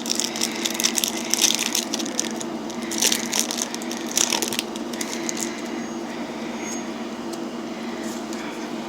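Foil booster-pack wrapper crinkling and tearing open as it is handled: dense crackling for about the first five seconds, then only a few faint rustles. A steady low hum runs underneath.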